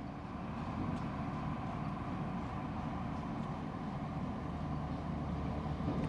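Steady low mechanical rumble, like an engine running.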